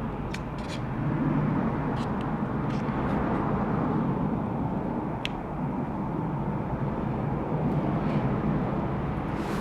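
Steady low background rumble with a few faint, brief clicks of small laptop parts being handled.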